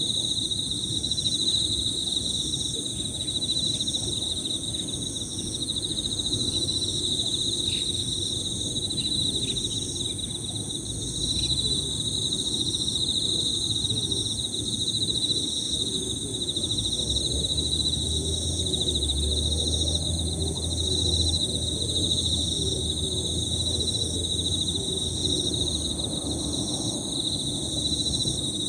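Several Emma field crickets singing at once in a high, continuous, overlapping ringing chorus. Faint short chirps of small birds come through in the first ten seconds, over a low rumble that thickens in the second half.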